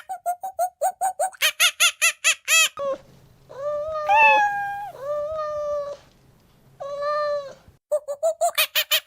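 A cat meowing three times, each meow drawn out for about a second. Before and after the meows comes a fast run of short, repeated high calls, about five a second.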